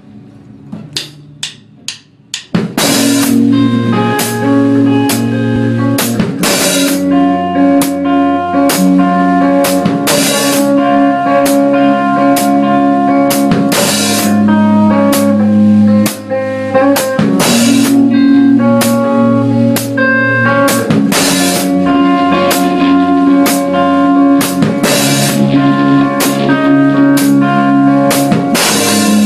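A few quick sharp clicks count in, then a rock band comes in together with electric guitars playing sustained chords over a full drum kit, an instrumental intro with no singing.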